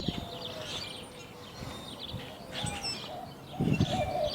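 Small birds chirping and twittering in quick short calls, with a low thump about three and a half seconds in.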